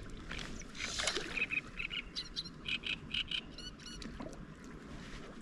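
A bird calling: a quick run of short chirps lasting about two and a half seconds. A brief rush of noise comes about a second in.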